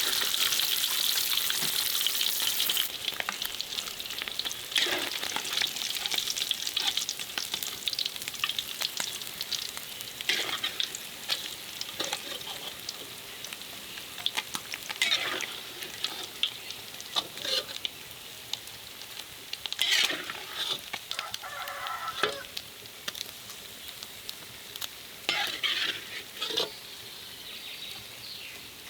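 Food sizzling in a hot pan, loudest for the first few seconds and then easing to a steady sizzle. It is stirred with a utensil, which makes short scraping strokes every few seconds.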